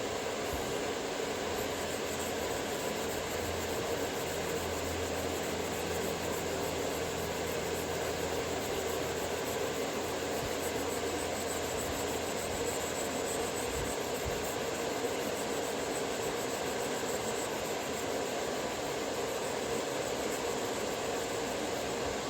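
Steady grinding hiss from a chisel being sharpened, with a low hum underneath from about three seconds in to about thirteen seconds.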